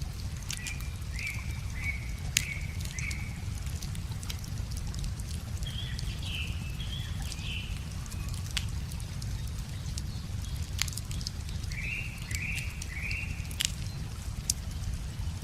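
Wood fire crackling with scattered sharp pops over a steady low rush of a river, while a songbird calls three times in short phrases of three or four quick notes.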